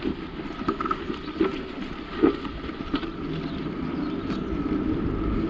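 Bicycle riding noise: tyres and frame rattling on the trail with wind on the microphone, with a few sharp knocks in the first couple of seconds, growing slowly louder toward the end.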